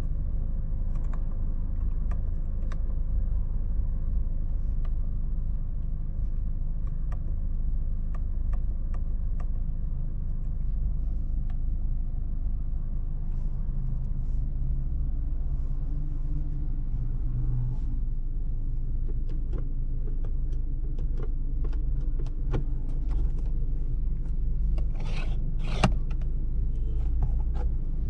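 2025 Toyota Corolla idling, heard from inside the cabin as a steady low rumble. Scattered light clicks come more often in the second half, and there is a brief louder rustle near the end.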